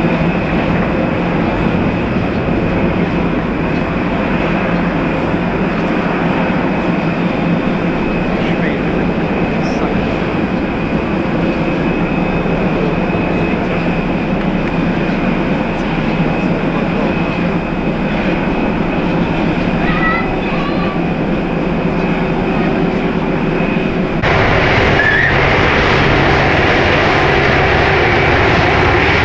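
Jet airliner engines running, a loud steady rush with a thin high whine over it. About 24 seconds in the sound changes abruptly to a different engine noise.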